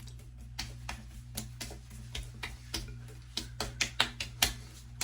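Light, irregular slapping taps of hands patting aftershave onto the face, coming quicker and louder in the second half, over a steady low hum.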